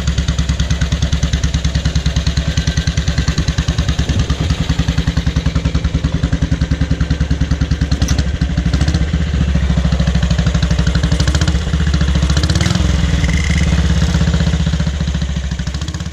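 Horex Regina 350's single-cylinder four-stroke engine running through short, unrestricted 'Kurze Tüten' silencers. It idles with an even, loud thumping beat, then is revved a few times with the beat blurring into a smoother, higher note.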